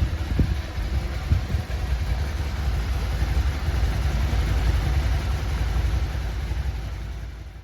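Suzuki SV650's 90-degree V-twin engine idling steadily, fading out near the end.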